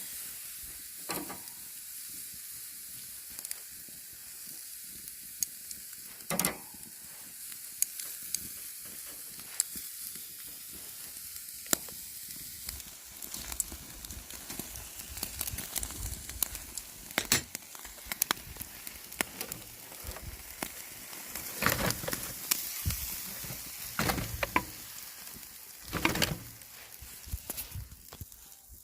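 Marinated pork bulgogi sizzling on a wire grill over charcoal, a steady hiss with crackles, broken by sharper clicks and knocks now and then.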